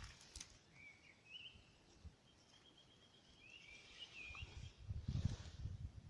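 Faint songbird chirps and a quick run of high repeated notes, with a soft rustle near the end.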